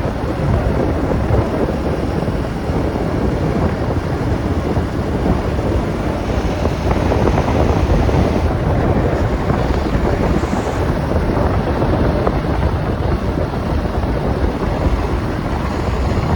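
Steady wind rush buffeting the microphone of a Bajaj NS200 motorcycle riding at highway speed, with engine and road noise beneath.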